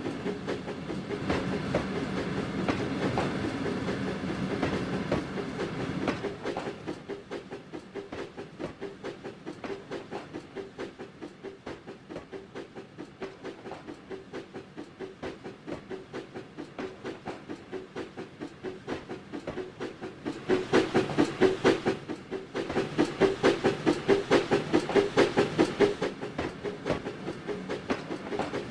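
Train running along the rails with a steady, even clickety-clack rhythm, which grows louder about twenty seconds in.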